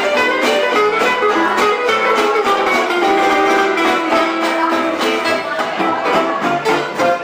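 Live band playing music with a strummed guitar and a violin, at a steady beat.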